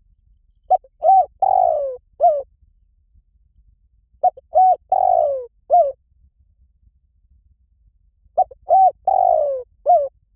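Spotted dove cooing: three identical phrases about four seconds apart, each two short coos, a longer falling coo, then a short falling one.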